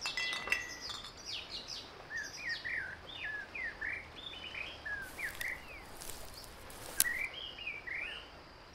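Small birds chirping, a run of short calls that slide up and down in pitch, with a few sharp clicks about five and seven seconds in.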